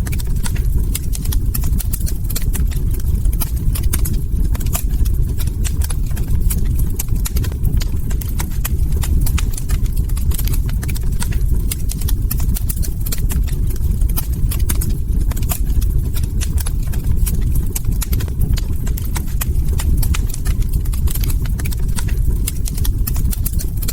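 Log fire crackling, with many irregular sharp pops and snaps over a steady low rumble of the burning fire.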